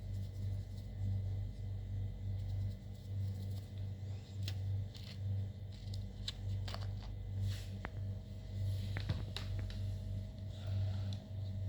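Slime being worked by hand, giving scattered short sticky clicks and crackles, most of them in the middle of the stretch, over a steady low hum.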